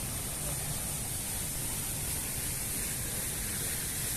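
Steady outdoor background noise: an even hiss with a bright high band and a low rumble, and no distinct sound standing out.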